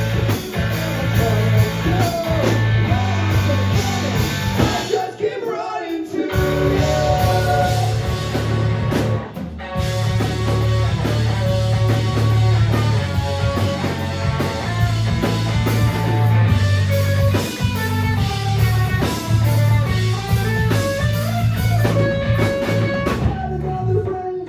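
Live rock band with electric guitars, bass and drum kit playing a loud section of a song, with the band dropping out briefly twice, about five and nine seconds in.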